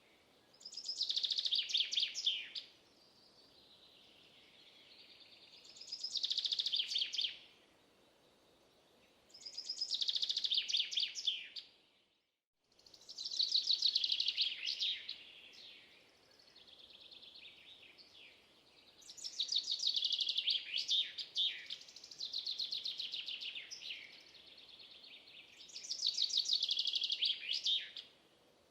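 A songbird singing, repeating short phrases of rapid, high notes every few seconds, with fainter twittering between the phrases. A brief break to silence about twelve seconds in.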